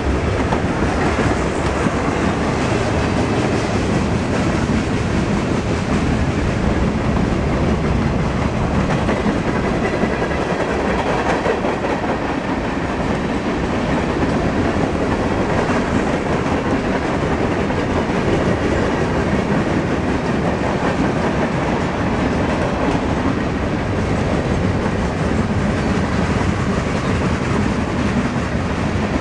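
Freight train's cars rolling steadily past on the near track: tank cars, a covered hopper and boxcars, their steel wheels running over the rails with a continuous loud rolling noise.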